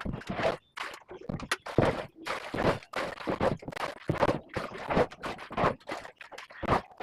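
A rapid, irregular series of short scrapes and knocks, several a second.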